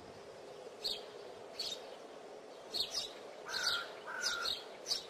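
Small birds chirping: short, high chirps repeating roughly every second, with two brief, lower, steady whistled notes about three and a half and four seconds in.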